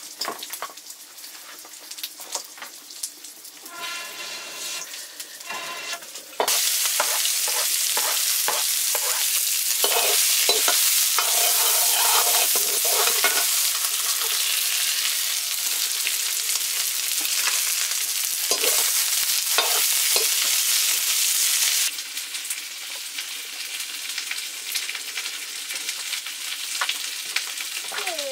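Pork curry frying in hot oil, with the clatter of stirring in the pan. A loud sizzle starts suddenly about six seconds in and eases back to a lower sizzle some six seconds before the end.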